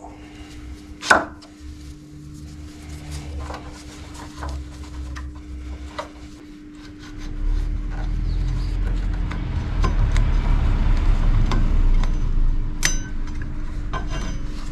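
A motorcycle front brake caliper being worked off its brake disc: scattered metal clicks and knocks, with one sharp clack about a second in, then a louder stretch of rubbing and scraping from about halfway through.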